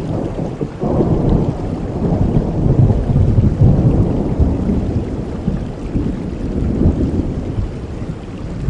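Thunder rolling over steady heavy rain. The low rumble swells about a second in, is loudest around the middle, then fades away near the end.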